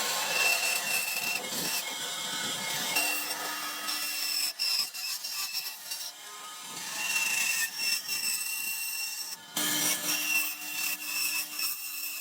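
A tool working wood, scraping and cutting at it, with a steady tone that comes and goes and a brief lull midway.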